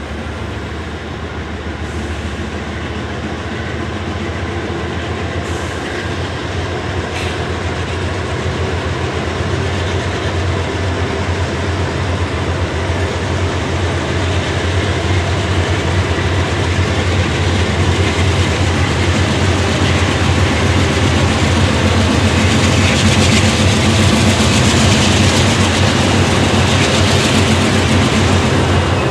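A train passing: a continuous low rumble with wheel noise on the rails, growing steadily louder and loudest in the last several seconds.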